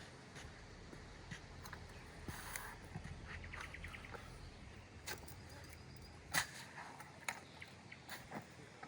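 Scattered sharp clicks and snaps, the loudest about six and a half seconds in, with a short rapid chattering trill about three and a half seconds in, over a low steady background rumble.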